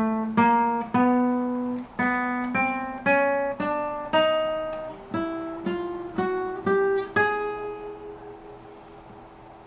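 Acoustic guitar (violão) playing single plucked notes one after another, about two a second and moving up and down in pitch, as notes are sounded fret by fret along the neck. The last note is left ringing and fades away.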